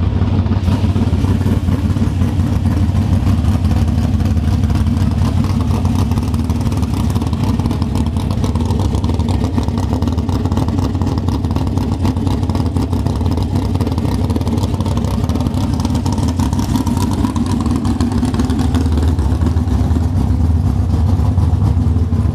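Carbureted 355 cubic-inch small-block Chevy V8 with a solid-lifter flat-tappet drag-racing cam, running steadily at a constant speed with no revving.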